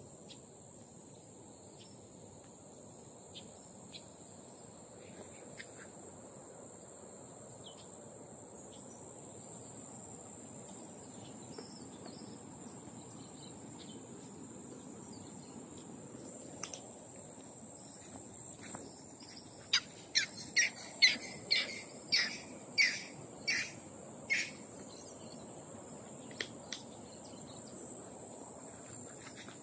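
Insects keeping up a steady high-pitched drone, and about twenty seconds in a bird calling in a quick run of about eight loud, short chirps.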